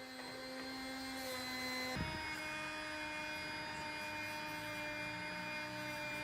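Electric motor running steadily with a hum. Its pitch steps up slightly about two seconds in, then holds.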